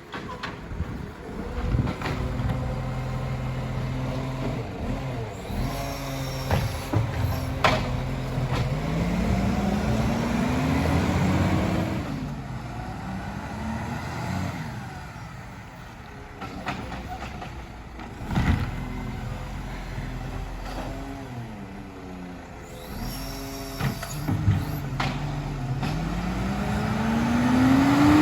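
Iveco Stralis garbage truck running, its engine pitch rising twice, then dropping as it changes gear, with a few sharp knocks along the way.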